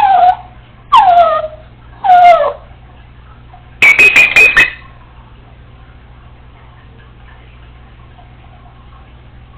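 Congo African grey parrot calling: three loud whistled calls about a second apart, each dropping in pitch, then a quick run of about five sharp beeps.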